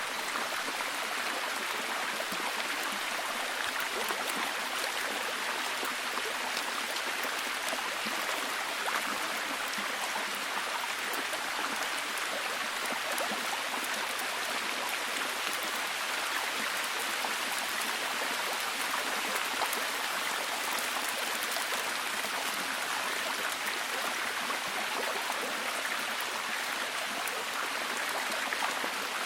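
Steady heavy rain, a dense even hiss of many drops with fine pattering.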